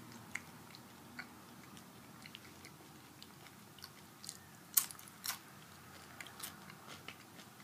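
Someone biting and chewing crunchy nacho chips close to the microphone: small scattered crunches, with two loud, sharp bites about five seconds in.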